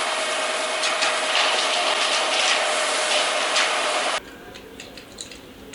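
A steady, hissing mechanical rattle with faint ticks that cuts off suddenly about four seconds in, followed by faint clicks.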